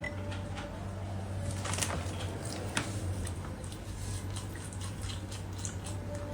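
Close-miked wet eating sounds of someone eating bone marrow: sticky squishes and sharp mouth clicks, the loudest about two and three seconds in, over a steady low hum.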